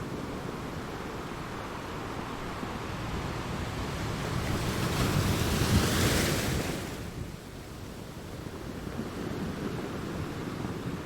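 Sea waves breaking on rocks: a steady rushing wash with one wave surging louder about five seconds in and falling away by about seven seconds.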